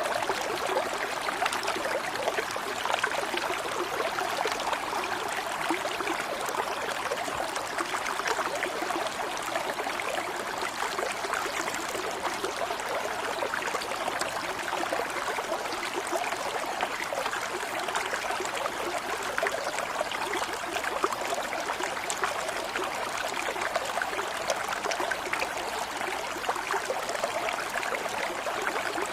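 Flowing stream water trickling and babbling steadily over stones, an even continuous rush with fine splashy detail.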